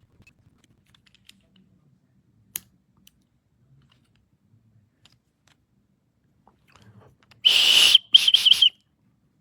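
The built-in emergency whistle of a SHARPAL 101N knife sharpener blown in three blasts near the end: one longer blast, then two short ones, each a shrill, airy tone. A single sharp click comes earlier, about two and a half seconds in.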